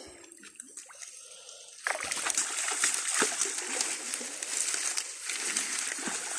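Pond water splashing and trickling, starting suddenly about two seconds in and going on with small knocks mixed in.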